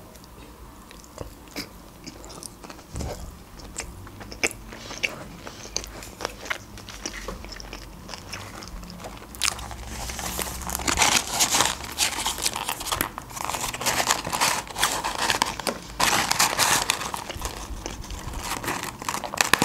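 Close-miked chewing of a salmon sushi roll, with small mouth clicks. From about ten seconds in it gives way to louder rustling and crinkling of a paper French-fries carton as the fries are tipped out and handled on the table.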